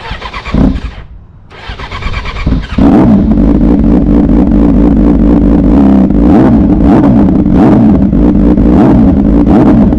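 Yamaha R6 inline-four sport-bike engine turned over on the electric starter, catching about three seconds in and then running steadily but roughly: it has quite a bad misfire.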